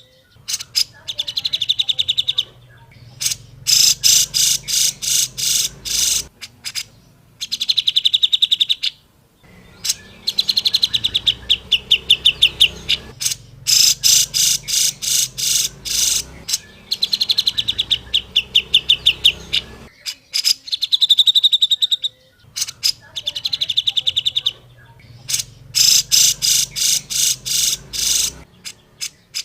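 Cucak jenggot (grey-cheeked bulbul) calling: repeated bouts of rapid, harsh chattering notes, each bout one to three seconds long with short pauses between.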